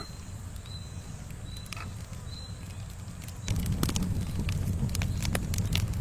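Campfire burning with a low steady rumble and scattered crackles. About three and a half seconds in it grows louder, with frequent sharp pops.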